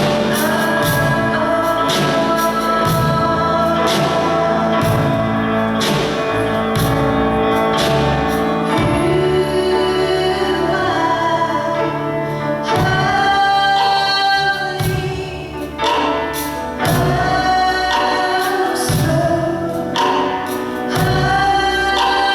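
Live gospel song: a church choir and singers with instrumental accompaniment and a steady beat.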